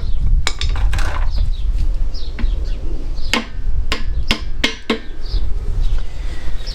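Hammer driving a big screwdriver against the battered retaining-washer tab on a Fiat 500 crankshaft hollow bolt: sharp metal-on-metal strikes, a few spaced ones, then a quick run of about five in the second half.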